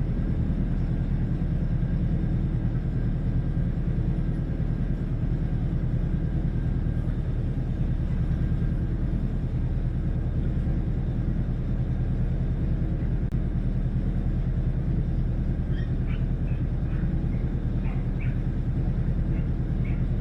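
A motor boat's engine running steadily while under way, a low even drone. A few short, faint high chirps come in near the end.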